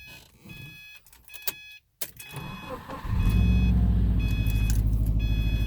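Subaru WRX's EJ255 flat-four starting on a cold start about three seconds in, then idling steadily, heard from the cabin; the owner suspects a rod knock in this engine. A car's warning chime repeats about once a second throughout.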